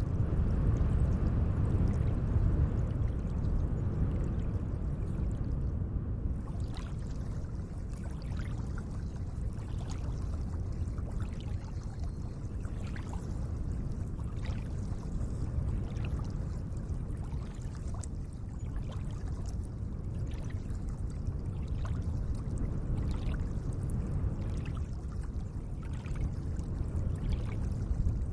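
Gentle lake water: a steady low wash, a little louder for the first few seconds, with small splashes and drips scattered through from several seconds in.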